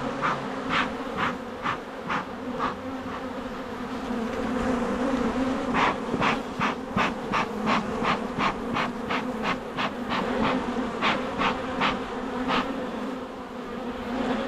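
Swarm of honeybees buzzing around an open hive, a steady hum. Over it comes a run of short, sharp sounds, about two a second, at the start and again through most of the second half.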